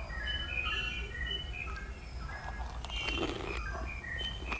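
Small birds chirping in many short, high notes, over a steady low hum. About halfway through come a few faint crunching and chewing sounds as a crisp puri is bitten.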